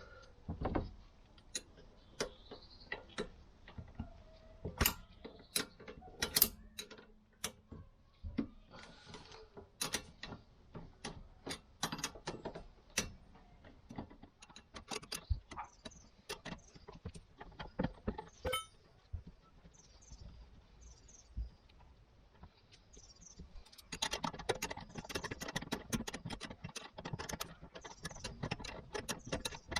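Metal hand tools clinking and knocking on the brake caliper as its 13 mm bolts are undone with a spanner: scattered sharp clicks, then denser rapid clicking and rattling in the last six seconds.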